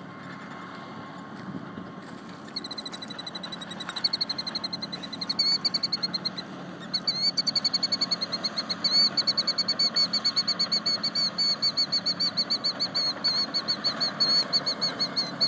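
A bird giving rapid, repeated high alarm calls, several notes a second, starting a few seconds in and growing louder and more insistent: a bird agitated at its nest of eggs.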